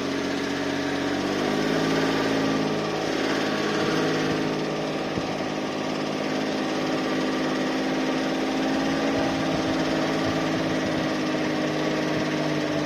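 Suzuki Spacia MK53S kei car's three-cylinder engine running while driving at low speed, its pitch rising a little about a second in and then holding steady, with scattered low knocks in the second half. This is the abnormal noise heard on the first drive from a cold engine, whose source the owner cannot locate.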